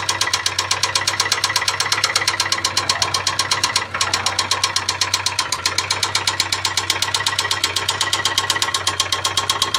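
Ford Sierra engine idling with a fast, even metallic ticking from the cylinder head, about ten ticks a second: a worn camshaft and rocker arms knocking.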